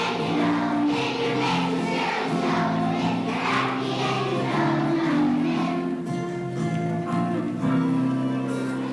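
A choir of elementary-school children singing a song with musical accompaniment, in sustained notes.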